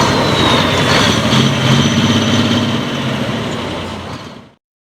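Light limited super stock pulling tractor's diesel engine running steadily, with a high whine slowly falling in pitch; the sound fades about four seconds in and then cuts off abruptly.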